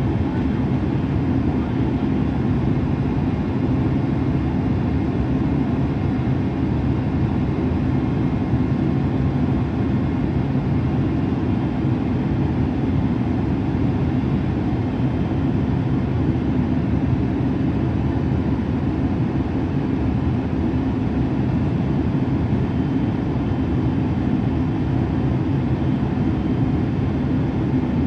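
Steady cabin noise inside a jet airliner in flight: an even rumble of engines and rushing air, with faint steady whines above it.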